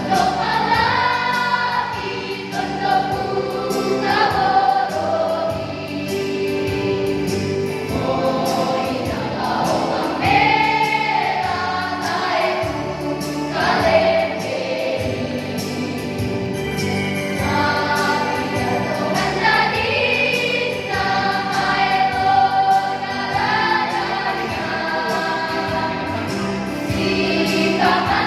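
A choir of junior high school boys and girls singing together in held, sustained phrases.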